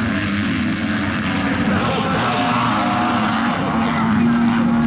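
Motocross bike engines running hard on track, their pitch rising and falling as the riders rev through the gears.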